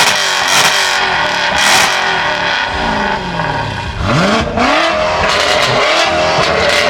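Car engine revving hard several times, its pitch climbing sharply and then falling away, with a steep rev about four seconds in.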